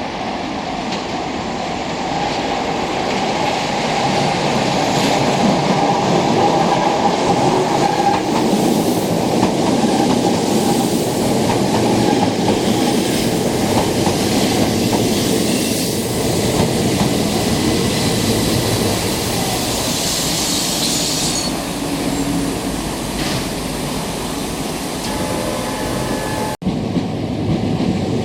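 Electric train running on the Keishin Line, wheels rumbling and clattering over the rails, with a high wheel squeal about twenty seconds in. The sound breaks off for an instant near the end.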